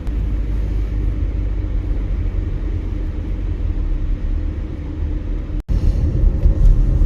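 Car interior road noise while driving on a snowy road: a steady low rumble of engine and tyres, which cuts out for an instant about five and a half seconds in.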